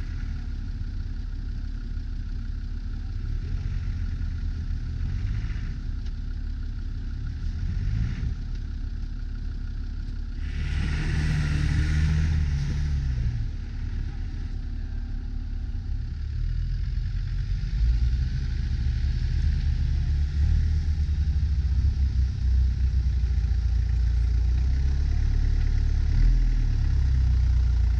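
Off-road 4x4 engines running at low speed through deep snow. A brief rushing noise comes about ten seconds in, and the engine sound grows louder and heavier in the second half.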